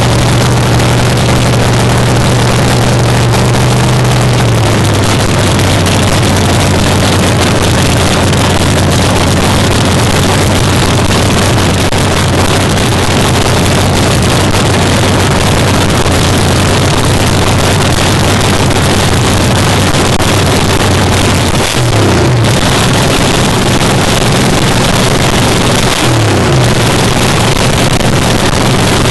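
Fuel altered drag car's V8 engine idling with a loud cackle; its pitch drops a little about four seconds in, and the throttle is blipped briefly twice near the end.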